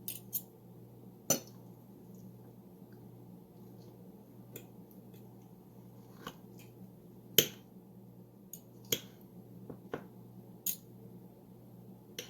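Scattered sharp clicks and light knocks of kitchen utensils against a dish, about eight over the stretch with the loudest about seven and a half seconds in, over a steady low hum.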